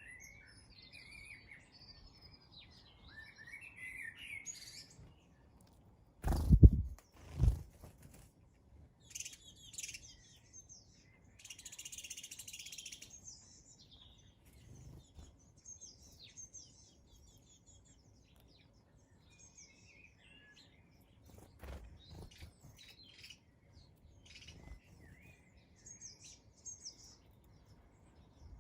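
Small garden birds chirping in short, scattered high calls. Two loud thumps about six and seven seconds in, a brief dense chattering patch around twelve seconds, and a softer knock a little after twenty seconds.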